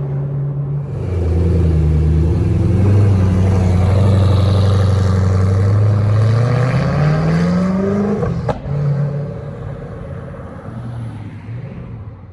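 Koenigsegg Agera One:1's twin-turbo V8 accelerating, loud, its revs climbing for a couple of seconds, then a sharp crack as the pitch drops at an upshift, after which the engine note fades as the car pulls away.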